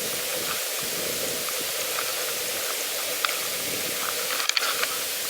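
Steady hiss of a pedal bike rolling along a path, with a few light clicks about three and four and a half seconds in.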